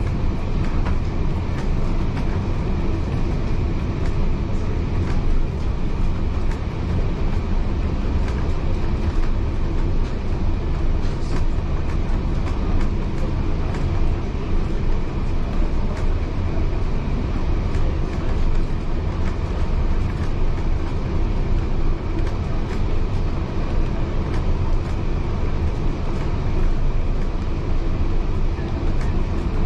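Heritage railway carriage running along the track, heard from inside the carriage: a steady low rumble of wheels on rail with faint scattered clicks.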